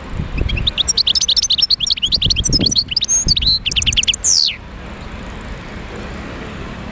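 European goldfinch singing: a rapid twittering phrase of quick chirps and trills lasting about four seconds, ending on a falling whistle, over a steady low background rumble.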